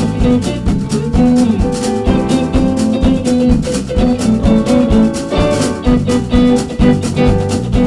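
Instrumental jazz-combo music: a drum kit keeps a steady beat under sustained melody notes, with guitar and a shaker.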